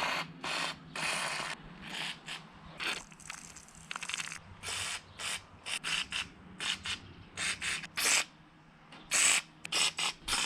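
Aerosol can of Chemtools R10 rust penetrant sprayed in many short, irregular hissing bursts onto rusted nuts, bolts and threads to loosen them for disassembly.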